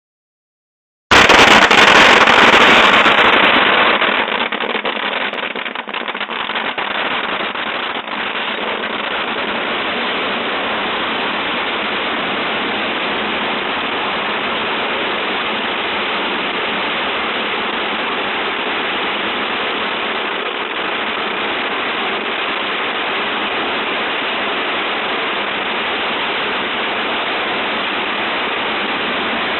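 Large bonfire pyre burning: a steady rushing roar of flames with crackling, loudest in the first few seconds.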